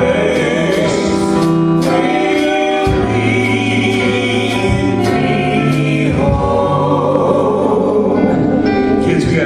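Gospel-style hymn music: a choir sings held notes over instrumental accompaniment with a light steady beat.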